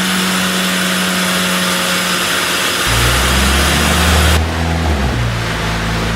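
Peugeot RCZ engine running on a chassis dyno. It holds a steady high engine note, then drops to a lower, deeper note about three seconds in. The loud hiss of the run cuts off sharply a second or so later.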